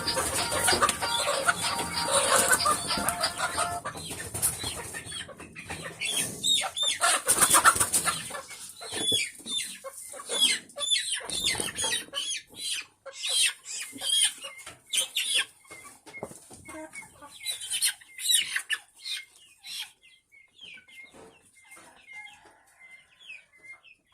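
A flock of chickens clucking and calling, with bursts of wing flapping and scuffling. It quietens after about twenty seconds to soft, regular high peeps.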